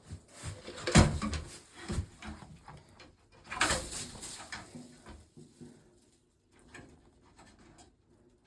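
Sounds from a pet Bengal eagle-owl: a loud burst about a second in and another about three and a half seconds in, with smaller rustles and clicks between them that fade off later.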